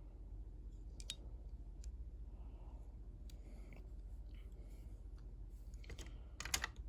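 Faint handling noise from a small diecast toy car being turned in the hands: a few light clicks, about a second in and again near the end, over a low steady hum.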